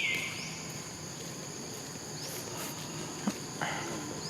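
Steady high-pitched drone of crickets. Right at the start comes one loud high call that drops in pitch and then holds for about half a second, with a faint click and a short rustle a little past the middle.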